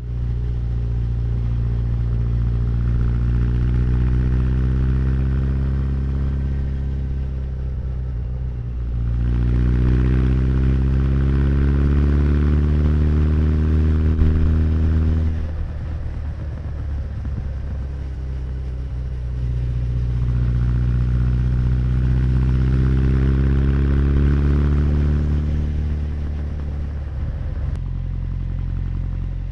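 Honda CB1100's air-cooled inline-four engine and exhaust under way on a ride. The engine note climbs steadily under throttle, eases off at about 15 seconds, then climbs again from about 20 seconds before dropping back near the end.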